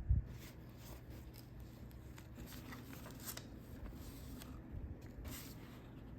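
Snack packaging being handled and opened: a run of irregular crinkles, rustles and small crackles of wrapping, over a low steady hum.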